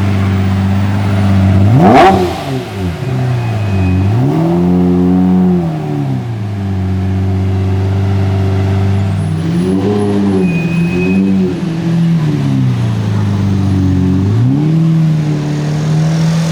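Lamborghini Murciélago LP670-4 SuperVeloce's V12 idling through a decatted Tubi exhaust, with several short throttle blips. The sharpest and loudest rev comes about two seconds in, followed by slower rises and falls in pitch, including two close together about ten seconds in.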